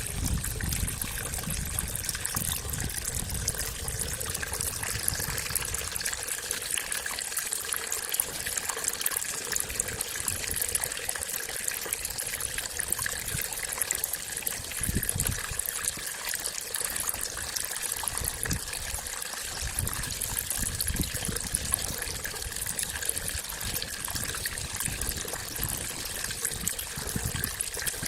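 Water trickling steadily in a paddy field, with faint steady tones above it and occasional low rumbles.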